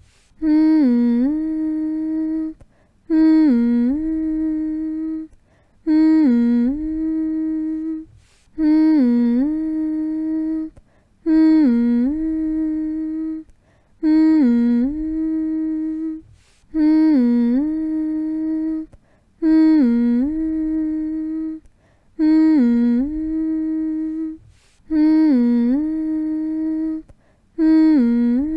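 A person humming the same low, steady note over and over, each hum about two seconds long, opening with a brief dip in pitch before settling. There is a short pause for breath between hums, about every three seconds.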